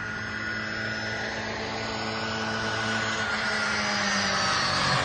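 Classic Mini rally car's four-cylinder A-series engine pulling under load, heard from inside the car, getting steadily louder as it accelerates.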